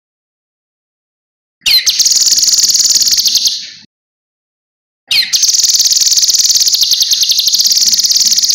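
Cucak kinoi singing: two bouts of a high, very fast trill, each opening with a quick falling note, the first about two seconds long and the second longer, separated by a pause of about a second and a half.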